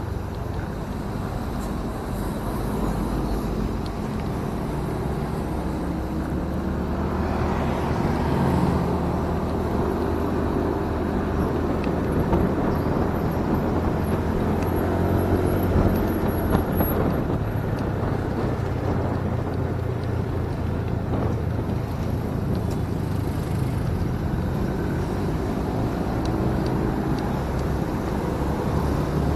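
Motorcycle engine running while riding, with road and wind noise; the engine note rises and falls with speed, and a louder rush of noise swells about a quarter of the way in.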